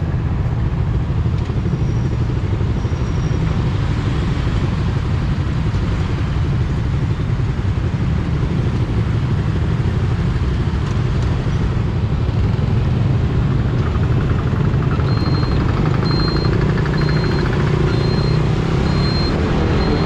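Suzuki GSX-R150's single-cylinder engine running under way in traffic, under a heavy low rumble of wind on the microphone. From about three quarters of the way in, a short high beep repeats about every 0.7 seconds.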